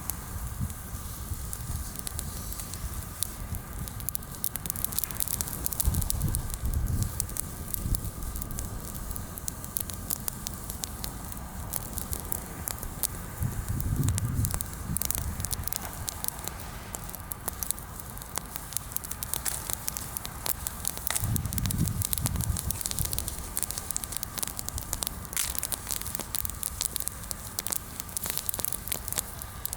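Bonfire of freshly pruned, mostly green fruit-tree and garden branches crackling, with a steady run of sharp pops and snaps and a low rumble now and then.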